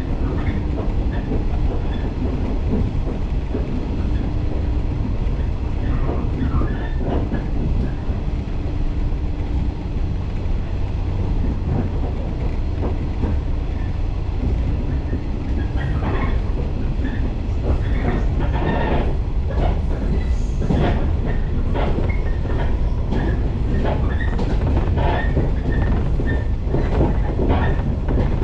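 Running noise of a Shinano Railway electric local train, heard from inside the carriage: a steady low rumble of wheels on rail. Clicks and knocks from the track come more often in the second half.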